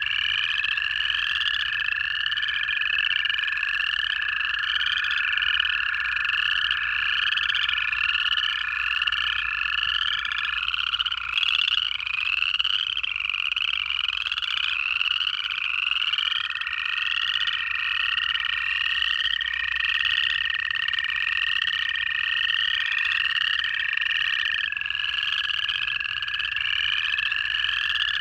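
Night frog chorus of upland chorus frogs, their short rising trills repeated over and over by many frogs at once. Over them run long, steady trills of American toads, each held for several seconds, one taking over as another stops.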